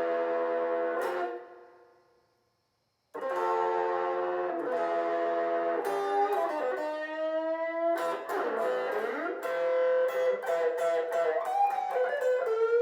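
Blues guitar music: a held chord fades out about a second and a half in, and after a second or so of silence the guitar resumes with single notes, some sliding in pitch.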